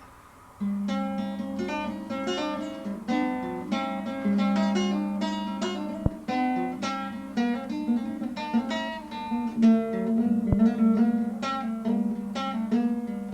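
Acoustic guitar playing an instrumental introduction, picked notes over a held low note, starting about half a second in.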